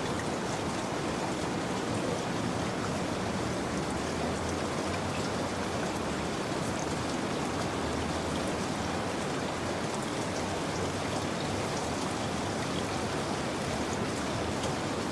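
Steady rain, an even wash of falling water with faint scattered drop ticks, laid down as a continuous sleep soundscape.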